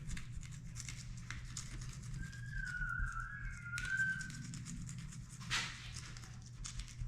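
Fillet knife cutting down the back of a tough, scaly sheepshead, a run of small crunching clicks and scrapes, over a steady low hum. A short wavering whistle-like tone sounds in the middle.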